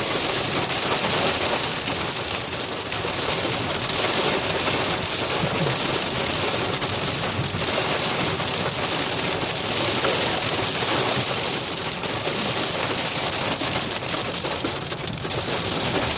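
Extremely heavy rain pelting a car as it drives, a dense steady hiss of drops with no letup.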